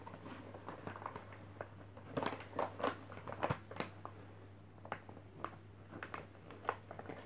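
A sheet of paper being folded and creased by hand: irregular faint crinkles and rustles, busiest between about two and three seconds in.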